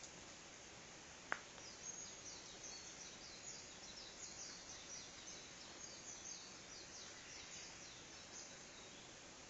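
Faint birdsong: a long run of quick, high, down-slurred notes over a steady outdoor hiss, with one sharp click a little over a second in.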